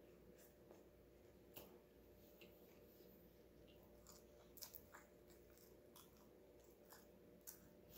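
Faint close-up mouth sounds of a person eating a soft sub sandwich: irregular wet smacks and clicks of chewing and finger-licking, over a low steady hum.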